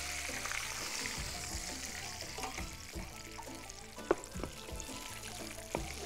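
Chicken pieces frying in a pan of hot oil with a steady sizzling hiss, a metal utensil clicking sharply against the pan twice in the second half. Background music plays underneath.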